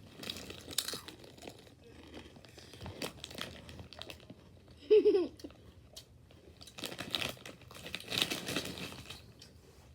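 Crinkly snack bag being handled and rustled in several bursts, with a brief pitched vocal sound about halfway through.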